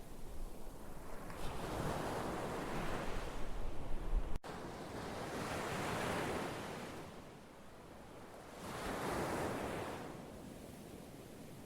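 Ocean waves breaking and washing on a shore, swelling and fading about every three seconds. About four seconds in there is a sudden brief break in the sound, after which the low rumble is weaker.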